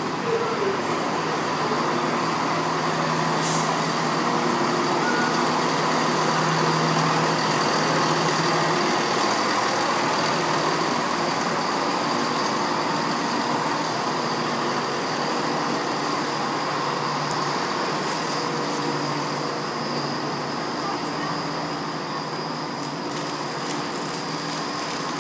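Steady mechanical drone of idling trains in an enclosed station, with a low engine hum and a constant high-pitched whine.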